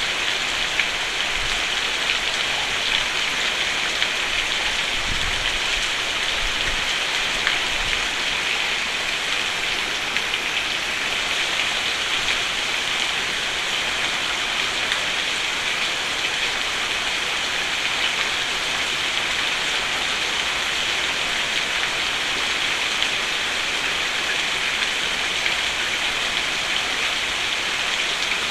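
Steady heavy rain pattering on a roof, with scattered louder drop ticks over a constant hiss. A faint low rumble comes and goes about five to eight seconds in.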